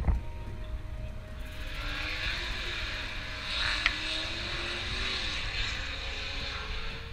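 A car engine running at low speed, with a sharp click right at the start.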